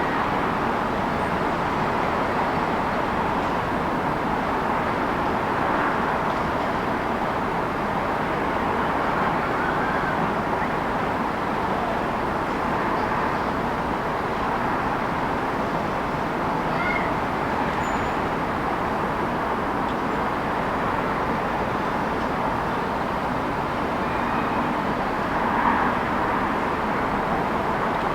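Steady city traffic noise, an even rush of distant vehicles, with a few faint brief sounds rising above it now and then.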